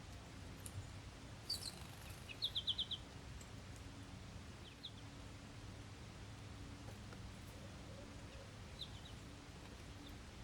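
Small birds calling at a seed bell: a sharp high chirp, then a quick run of five high notes about two and a half seconds in, and a few faint calls later, over steady low background noise.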